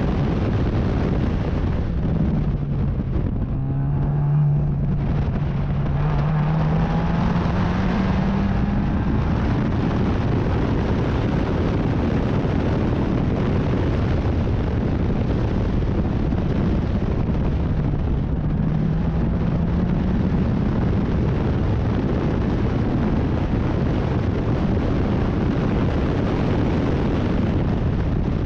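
Race car engine running hard under a dense, steady rush of noise. The engine note drops about three seconds in and then climbs over the next few seconds as the car accelerates, climbs again about two-thirds of the way through, and falls near the end.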